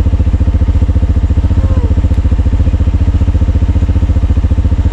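Vehicle engine idling loudly and steadily, with an even, rapid pulse.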